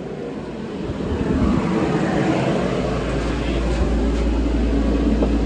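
A motor vehicle's engine running nearby, swelling over the first couple of seconds into a steady low rumble.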